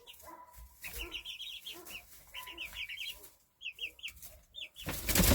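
Young chickens calling in quick runs of short, high chirping notes as they feed. Near the end a loud rustling burst close to the microphone.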